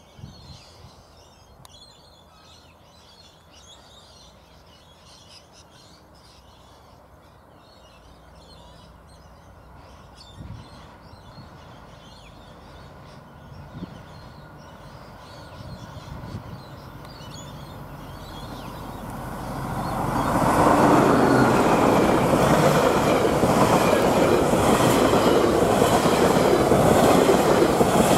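Queensland Rail's Spirit of Queensland diesel tilt train approaching, its engine sound growing steadily louder. About two-thirds of the way in it reaches and passes close by, with loud wheel and rail noise.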